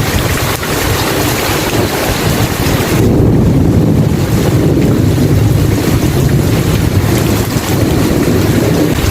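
Heavy rain hissing steadily, then about three seconds in a long, deep rumble of thunder takes over, with the rain's high hiss thinning as it does.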